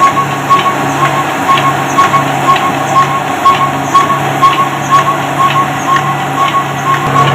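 Old Ruston Hornsby diesel engine running steadily, with a regular beat of knocks about twice a second over a constant hum.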